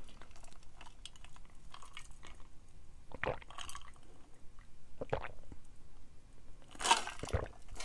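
Close-miked chewing of a granola cup filled with almond butter: a run of soft, wet mouth clicks, with a few louder short sounds about three, five and seven seconds in, the loudest near the end.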